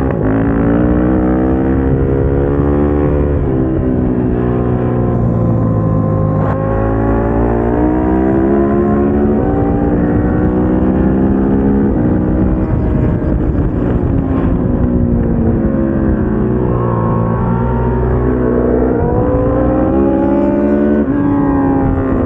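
KTM 690 SMC-R single-cylinder engine under hard track riding. Its note climbs repeatedly in pitch and drops sharply at each gear change, with slower falls between runs as the bike slows for corners.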